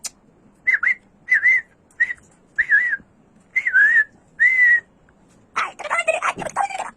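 A pet parrot giving six short whistled calls, each a quick wavering up-and-down note, then breaking into a harsher, rougher squawking chatter near the end.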